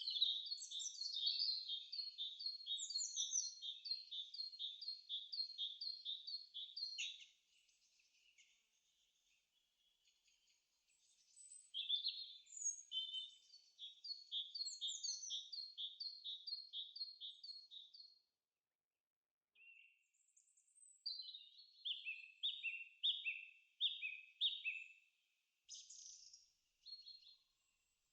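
A songbird singing long runs of quick, evenly repeated falling notes, a few notes a second, each run lasting several seconds with short pauses between; shorter calls follow near the end.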